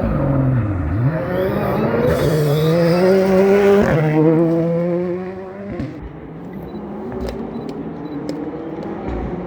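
A rally car's engine comes off the revs briefly, then accelerates hard with the pitch climbing to a peak about four seconds in. It changes up a gear, pulls on and fades away.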